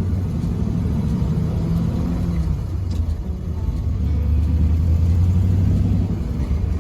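1936 Ford five-window coupe's 221 flathead V8 running with a steady low-pitched sound.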